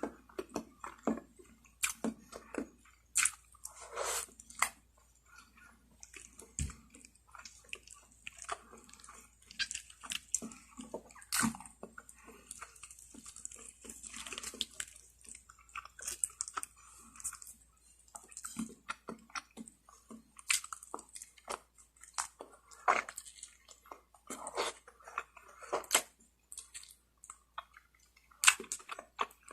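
Close-up chewing and biting of lechon manok, Filipino spit-roasted chicken: an irregular run of short clicks and mouth sounds, with no pauses longer than a moment.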